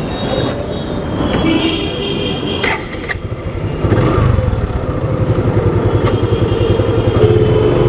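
Motorcycle engine starting about four seconds in and then idling with a steady, rapid low pulse over street noise, with a couple of sharp clicks just before it catches.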